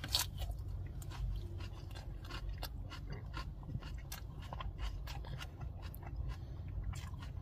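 A man chewing a mouthful of crunchy salad lettuce: irregular crisp crunches over a low steady hum.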